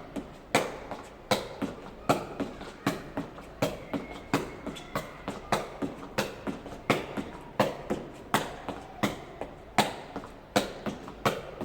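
A jegi (Korean shuttlecock) kicked over and over in a steady rhythm, a sharp tap about every 0.7 seconds, with softer taps in between.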